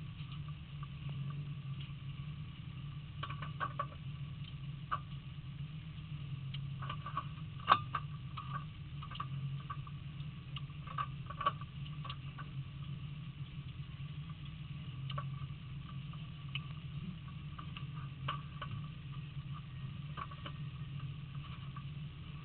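Rally car's engine idling, heard from inside the cabin as a steady low hum, with scattered clicks and rustles of paper handled in the cockpit; a sharp click about eight seconds in is the loudest sound.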